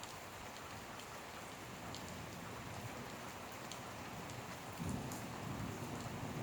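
Heavy rain falling steadily, with scattered sharp drips and splats. Near the end a low rumble of thunder starts and stays under the rain.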